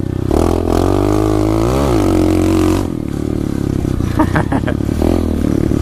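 SSR 125 pit bike's single-cylinder four-stroke engine running under a rider, picked up by a helmet-mounted microphone. It revs up and back down near two seconds in, then settles to a lower, steadier throttle.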